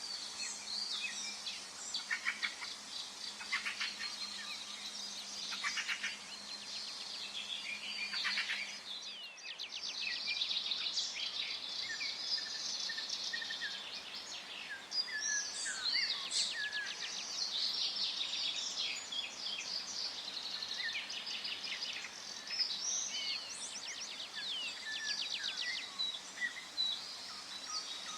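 Forest birdsong: several birds singing and calling at once, overlapping chirps, whistles and rapid trills over a faint background hiss. A faint low hum underneath stops about nine seconds in.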